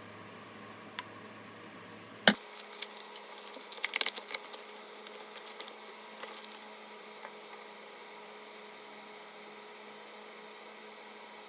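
A sharp click about two seconds in, then several seconds of light clinks and taps as baking utensils and a bowl are handled, over a faint steady hum.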